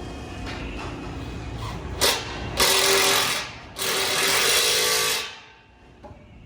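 A power tool runs in two bursts, about a second and then about a second and a half, with a steady whine inside the noise, while the Durango's exhaust is worked on for a mid muffler delete. A short knock comes just before the first burst.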